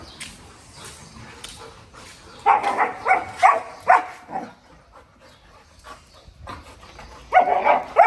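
Golden retriever giving short, loud barks and yelps in two rapid bursts, the first about two and a half seconds in and the second near the end.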